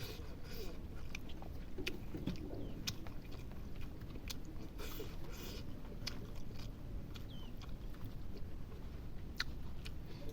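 A person chewing and eating food close to the microphone, with many sharp wet mouth clicks and smacks at an uneven pace.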